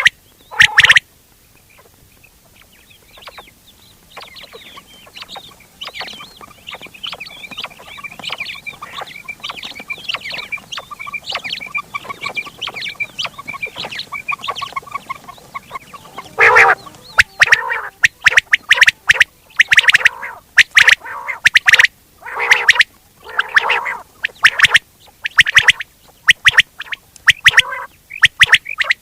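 Quail calling: a few loud, sharp calls at the start, then softer, dense chattering, and from a little past halfway loud, sharp calls repeated rapidly to the end.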